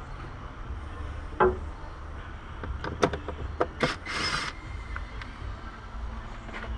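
Scattered knocks and clanks of hand tools and parts during work on a car, over a steady low hum, with a short hiss about four seconds in.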